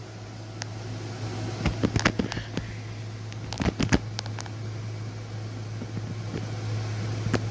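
A steady low hum with scattered sharp clicks and pops, in two clusters about two and four seconds in and once more near the end.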